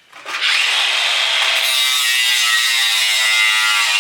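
A drawn-out metal-on-metal screech as a piece of sheet-steel computer case is worked off a hard drive, with a slowly wavering squeal on top of a grinding rasp.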